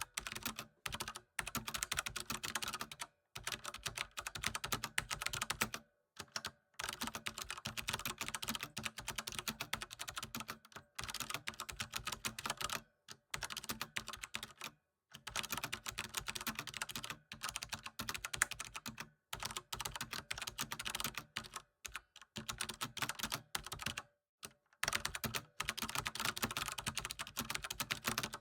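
Computer keyboard typing: rapid, continuous key clicks in runs of a few seconds, broken by short pauses.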